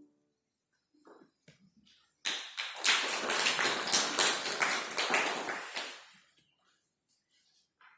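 Audience applauding: a burst of clapping that starts suddenly about two seconds in and dies away about four seconds later.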